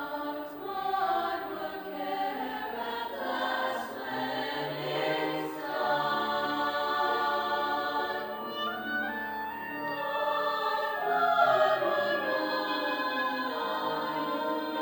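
High school choir singing in harmony, holding sustained chords that shift from one to the next.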